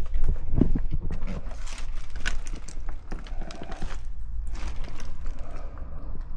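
Irregular footsteps, knocks and scrapes of people moving about and handling things, over a low rumble of handling noise on the microphone.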